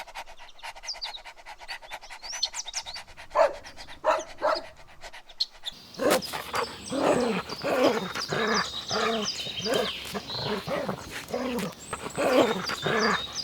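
Dogs barking: a few separate barks about three and a half seconds in, then from about six seconds a quick run of repeated barks, roughly two a second.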